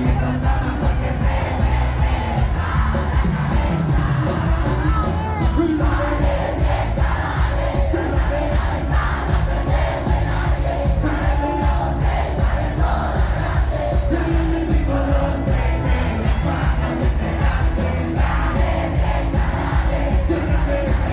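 Live cuarteto band playing a song at full volume with a steady beat, with singing and crowd noise over it.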